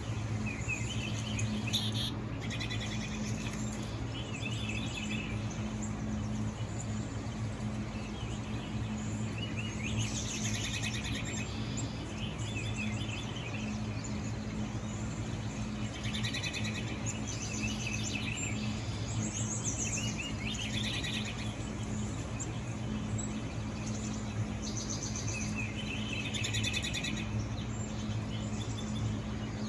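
Small birds chirping and singing in repeated bursts, played from a nature video through a phone's speaker, over a steady low hum.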